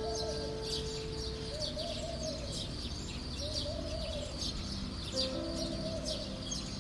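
Small birds chirping over and over, with soft background music of long held notes underneath.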